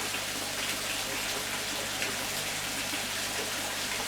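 Water splashing and running steadily with a constant hiss.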